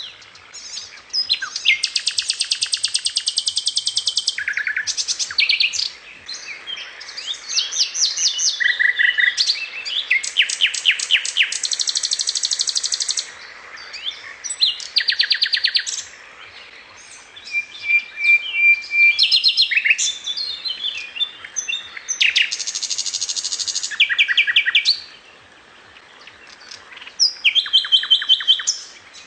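Songbird singing: long phrases of very rapid, high-pitched trilled notes, each lasting a second or two, repeated over and over with short pauses between them.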